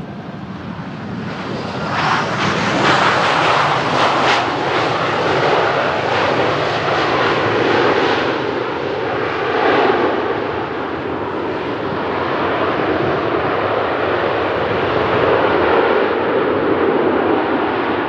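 Jet engines of an arriving Southwest Boeing 737 passing by, a steady roar that swells about two seconds in and turns lower in the second half as it moves away.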